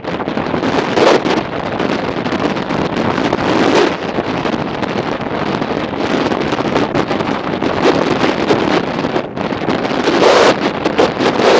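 Strong wind rushing over the microphone of a riding motorcycle, a loud buffeting that swells and eases in gusts.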